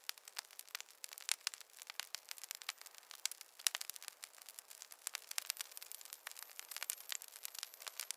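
Wood fire crackling in a fireplace: many sharp, irregular pops and snaps of varying loudness over a soft hiss.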